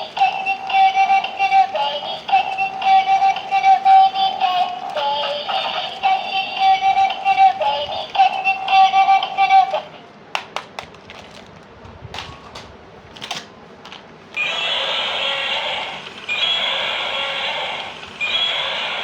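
Electronic, synthetic-sounding melody that stops about ten seconds in. A few sharp clicks follow, then a harsher, noisy sound comes in short blocks near the end.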